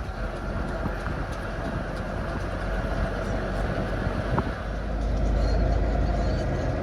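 Heavy truck on the move: steady engine and road rumble, growing louder about five seconds in.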